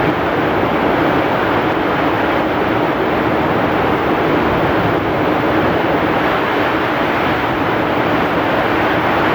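Heavy rain pouring with strong wind, a loud, steady, even rush with no single drops or gusts standing out.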